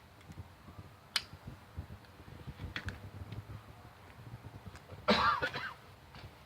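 Torque wrench working on connecting rod bolts, a retorque check: a sharp metallic click about a second in, a few lighter clicks a couple of seconds later, and a louder short rasping burst about five seconds in.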